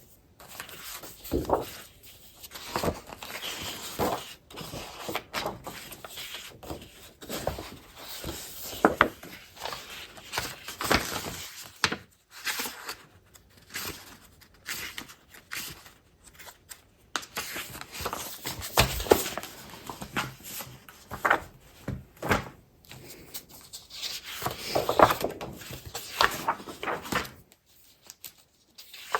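Paper crafting supplies being handled and shuffled: irregular rustling and crinkling of paper and packaging, with occasional sharp taps and knocks as items are set down.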